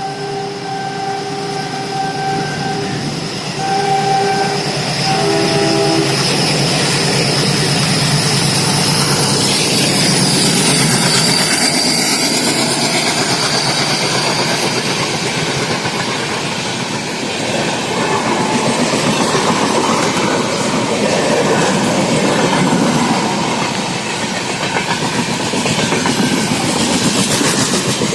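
Train horn sounding a long blast and then two shorter ones that end about six seconds in. The train then runs on with loud, continuous rumbling and an even clickety-clack of wheels over rail joints.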